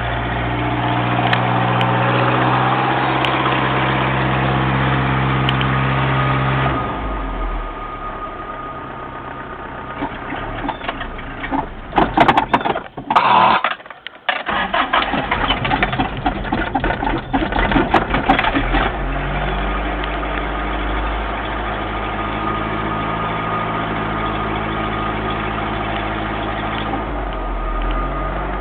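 Toyota truck engine running. Its note changes about seven seconds in, and a loud, rough, uneven stretch in the middle briefly drops out. It then settles back into a steady idle.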